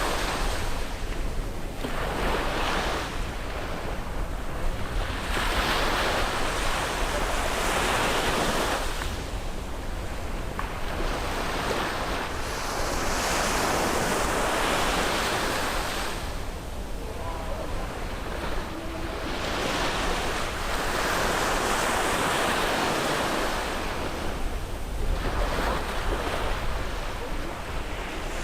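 Sea waves breaking and washing up on a beach, the surf swelling and falling away in surges every few seconds. Wind buffets the microphone with a steady low rumble.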